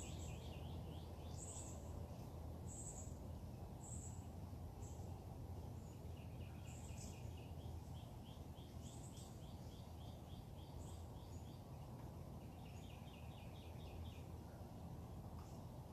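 Backyard birds singing: a thin, very high note repeated about once a second, and runs of quick chirps lower in pitch, over a steady low background hum.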